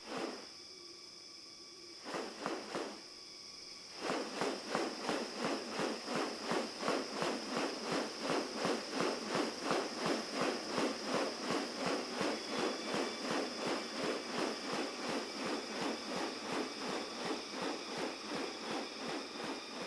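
Rainforest ambience: a steady high-pitched insect drone, joined about four seconds in by a louder rhythmic pulsing, about three pulses a second, that carries on to the end.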